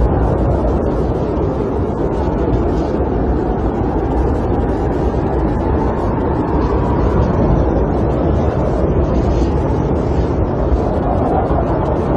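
Snowstorm wind blowing around a camper, heard from inside: a steady low rushing noise that swells and eases slowly.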